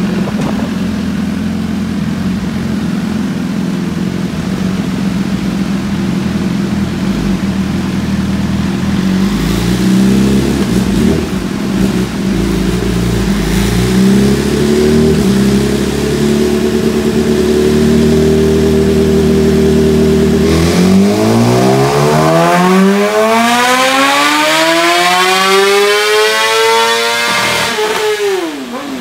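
2018 BMW S1000RR's inline-four engine running on a motorcycle chassis dyno. It holds fairly steady revs, stepping in pitch a few times. About twenty seconds in it rises in one long climb of about seven seconds under full throttle, then falls sharply as the throttle shuts near the end: a dyno power pull, with the bike still on its Slayer tune.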